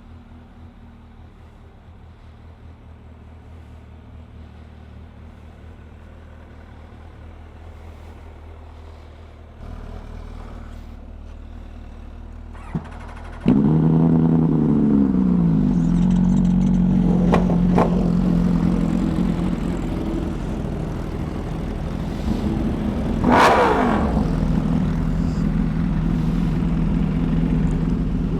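Faint engine hum, then about halfway through a motorcycle engine starts with a sudden loud flare whose pitch sweeps and settles into a steady idle; a brief throttle blip comes several seconds later.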